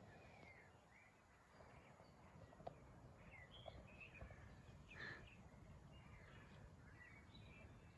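Faint birdsong: scattered short chirps and calls from several small birds, over a low steady outdoor rumble, with a few soft clicks.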